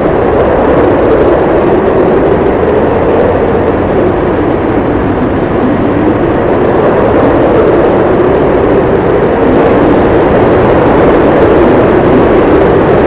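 Howling blizzard wind blowing steadily, a loud rushing noise whose low pitch rises and falls slowly without a break.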